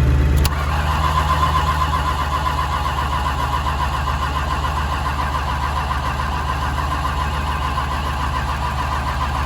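Ford Taurus SHO's V8 cranking over on its starter in the cold, turning fast and steadily for several seconds without catching: the engine won't start. It begins with a click about half a second in, over the low, steady idle of a 7.3 Power Stroke diesel.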